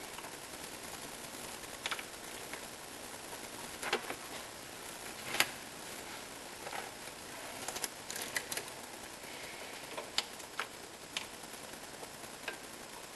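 Irregular sharp clicks and light metallic taps of hand tools working on an engine, about a dozen in all, the loudest about five and a half seconds in.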